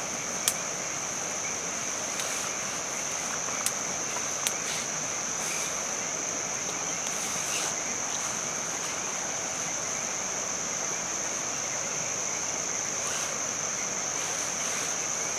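Steady rain hiss with a constant high-pitched whine over it and a few sharp ticks about half a second in and around four seconds in.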